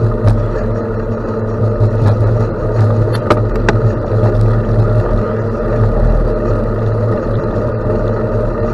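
Steady rumble of riding a bicycle on a gravel road: tyre noise and wind on the microphone, with a few sharp clicks around the middle.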